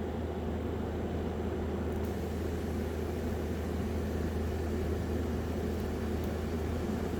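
Small battery-powered fan motors of a cardboard model air conditioner running with a steady hum.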